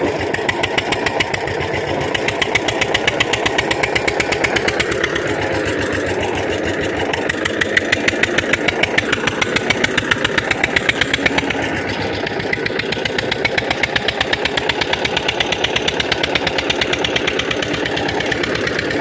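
Tractor diesel engine running with a steady, fast firing beat that grows louder for a few seconds in the middle.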